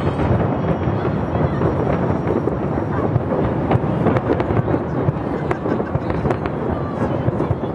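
Taipei 101 New Year fireworks going off in a continuous, dense run of booms and crackling bursts.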